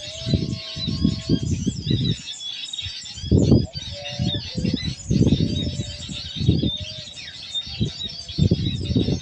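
Small birds chirping and twittering continuously in a dense, high-pitched chorus. Irregular low rumbling bursts come and go underneath and are the loudest sound.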